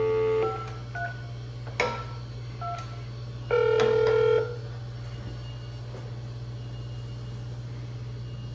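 Telephone keypad beeps and call tones while a phone call is placed: a few short beeps in the first three seconds, then a longer tone of about a second near the middle. A steady low hum runs underneath.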